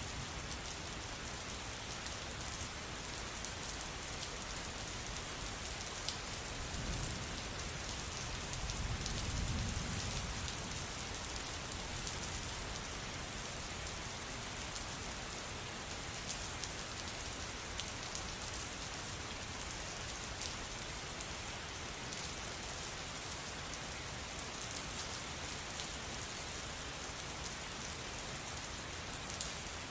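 Steady rain falling, an even hiss with scattered sharper drop ticks. A low rumble swells for a few seconds about seven seconds in, then fades.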